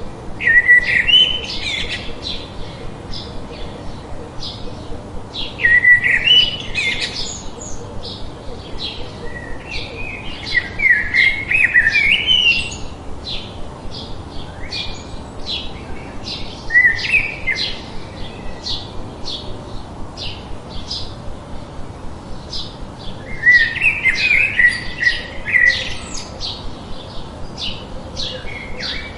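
Birds chirping and singing: a steady run of short, high chirps, about two or three a second, with louder warbling phrases every few seconds, over a steady hiss.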